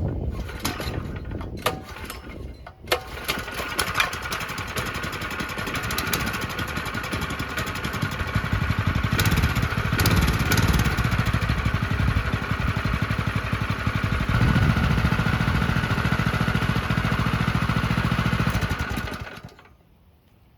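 Small new minibike engine running, speeding up about halfway through and holding a higher speed, then shut off near the end. It is a fresh engine being run in.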